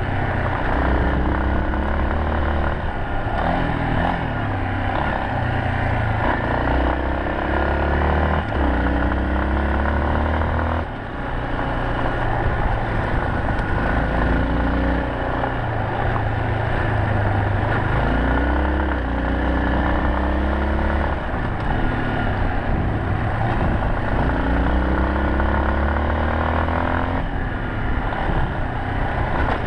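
Yamaha Serow 250's air-cooled single-cylinder engine under way on the move. Its pitch climbs and falls back again every few seconds as the revs rise and ease, over a steady rushing noise.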